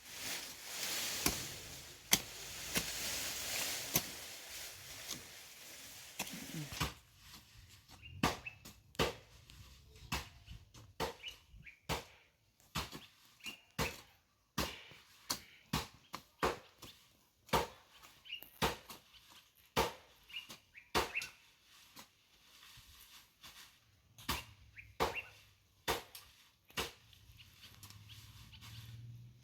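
A hand hoe striking and digging into garden soil, one to two irregular strokes a second, after a rushing noise in the first six seconds. Birds chirp faintly.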